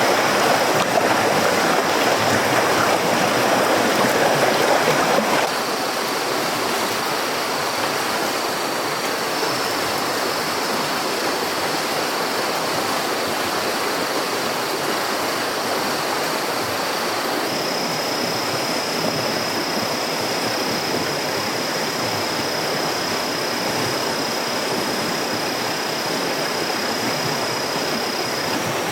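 Steady rush of flowing water, like a stream, that drops in level about five seconds in, with a thin high steady tone above it.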